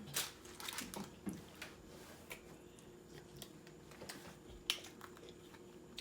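Eating sounds: chewing, with scattered light clicks and taps of chopsticks, a few sharper ones among them, over a faint steady hum.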